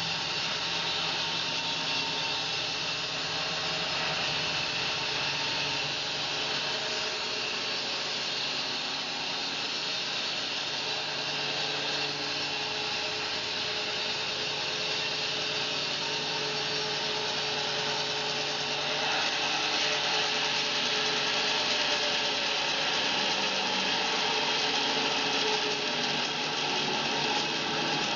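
Home-built bandsaw mill running steadily, its blade cutting along a fir log, getting slightly louder about two-thirds of the way through.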